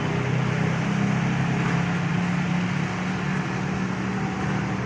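Heavy rain falling steadily, with the low, steady hum of a motor vehicle engine running beneath it.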